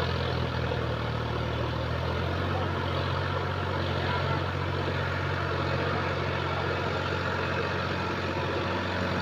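Sonalika tractor's diesel engine running at a steady speed.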